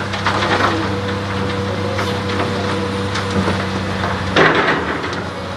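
Caterpillar 330D excavator running steadily under load, with a held hydraulic whine for a couple of seconds, while dirt and rock crunch and clatter in bursts as it digs and loads. The loudest crunch comes about four and a half seconds in.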